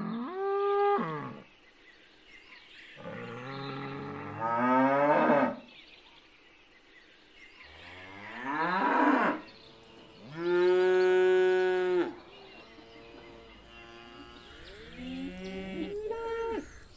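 Cattle mooing: a series of separate moos, some bending up or down in pitch. The loudest is held level for about two seconds in the middle, and quieter calls follow near the end.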